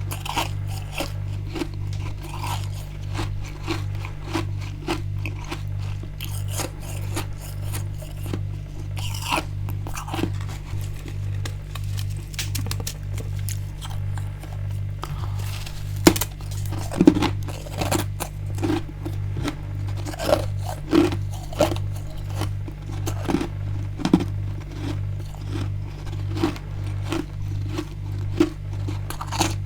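Crunching and scraping of freezer frost, with many sharp crackles that grow louder and more frequent from about halfway. A steady low hum pulses evenly beneath.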